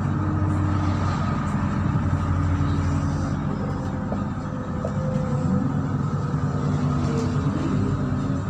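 Inside a moving MAZ-103 city bus: its diesel engine running steadily under road noise, the engine note rising and falling a couple of times in the second half.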